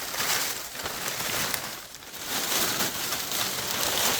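Crackling rustle of leaves and debris being handled, swelling and fading, with a brief lull about two seconds in.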